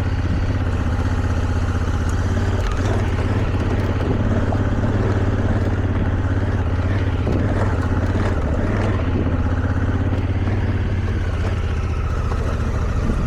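Motorcycle engine running steadily under load, pulling up a steep rocky climb, with rough-trail noise over it.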